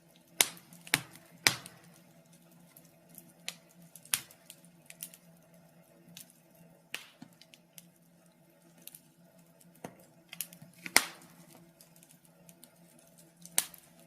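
Wood fire burning in a fireplace, crackling with irregular sharp pops and snaps, the loudest about eleven seconds in, over a faint steady hum.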